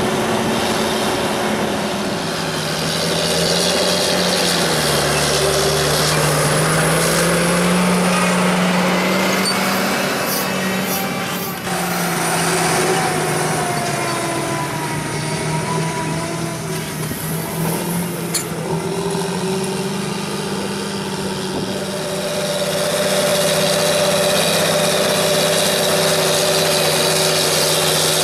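Large farm tractor's diesel engine running under load while pulling a mounted reversible plough, its pitch drifting up and down a little.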